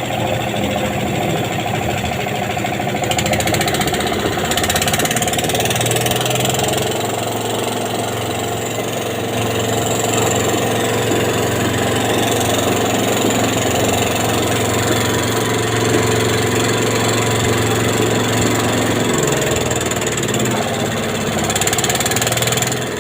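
Engine running steadily, its note strengthening about five seconds in and easing back a little before the end.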